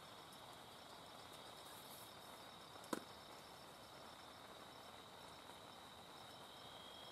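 Faint steady chirring of night insects, a high continuous buzz with a pulsing upper tone, over a soft background hiss; one sharp click about three seconds in.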